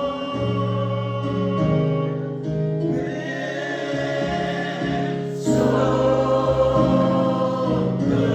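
Gospel choir singing with instrumental accompaniment, sustained chords changing every second or so, growing louder about five and a half seconds in.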